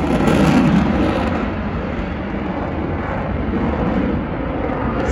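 F-35C Lightning II jet fighter's Pratt & Whitney F135 engine roaring in flight, loudest around the first second and then holding steady.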